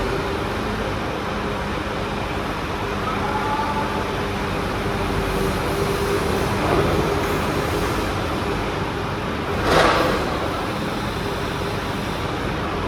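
Crane truck engine running steadily, with one short, loud noise about ten seconds in.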